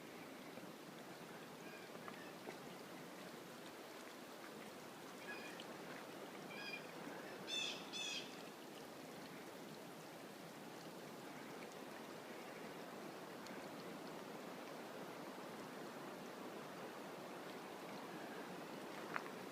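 A mountain brook flowing steadily. A bird calls a few times about a third of the way in, loudest in two calls around eight seconds in. A couple of faint clicks come near the end.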